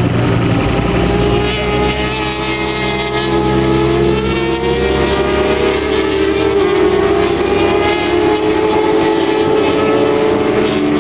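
A grid of road-racing motorcycles, lightweight twin-cylinder and small superbikes, running their engines together, several engine notes overlapping and slowly rising and falling.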